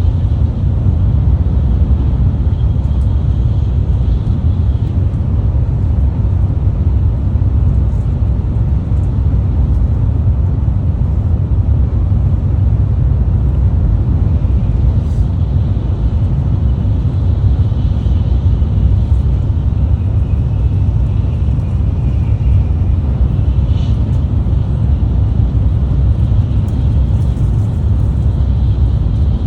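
Tokaido Shinkansen train running, a steady low rumble that holds without let-up.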